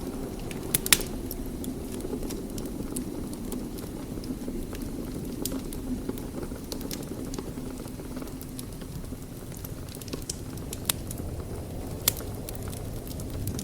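Wood fire in a fireplace crackling: scattered small snaps over a steady low rumble, with two louder pops, about a second in and near the end.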